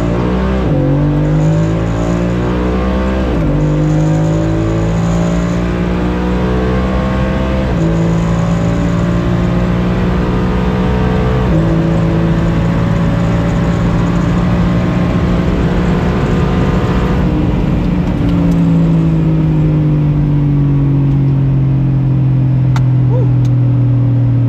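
Ford F-150's 5.0 V8 through an MBRP cat-back exhaust, pulling at wide-open throttle up through the gears, with a brief break in the engine note at each upshift. About three-quarters of the way through, the throttle lifts and the exhaust note falls steadily as the truck slows.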